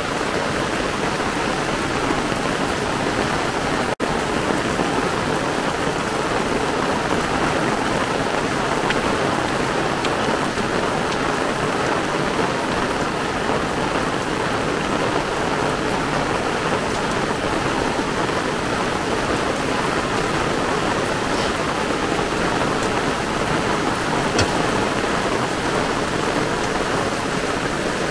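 Heavy downpour: dense, steady rain falling hard. The sound briefly cuts out about four seconds in.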